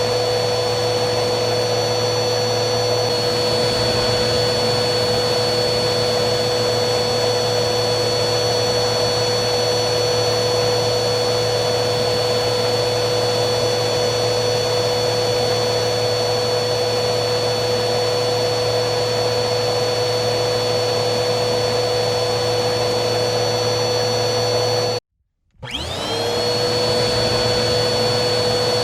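Vacuum cleaner motor running steadily with a constant whine over a rushing hiss. Near the end it cuts out abruptly, and after about half a second of silence the motor whines back up to speed.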